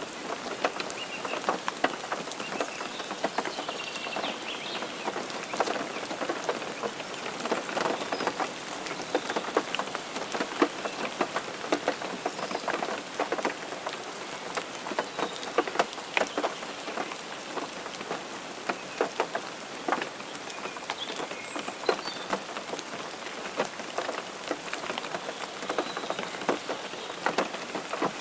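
Rain mixed with snow striking a car's windshield and roof: a steady hiss with many sharp, separate drop ticks.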